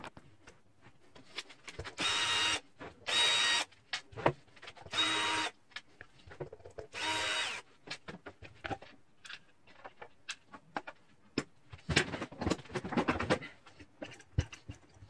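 Power drill run in four short trigger bursts, each a steady whine lasting under a second, then a longer, rougher burst near the end, with clicks and knocks of handling between.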